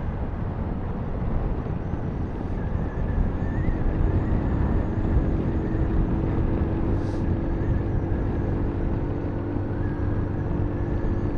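Sinnis Terrain 125cc motorcycle on the move: a steady rush of wind noise over the microphone, with the bike's engine running faintly underneath and its tone coming through more clearly a few seconds in.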